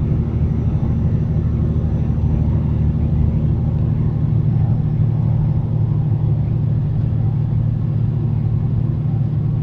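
Semi-truck cruising on the highway: a steady, even drone of engine and road noise with no change in pitch.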